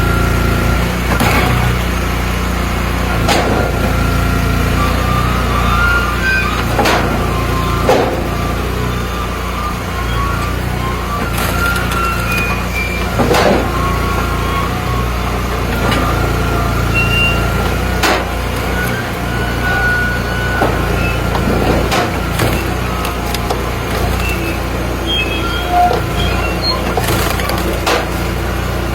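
Engine-driven hydraulic log splitter running steadily, with sharp cracks every couple of seconds as logs split, and short squeaks from the wood.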